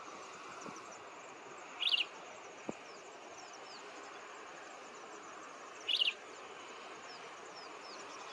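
Outdoor wildlife ambience: a steady background hiss with many faint high chirps. A short, sharp bird call stands out twice, about four seconds apart.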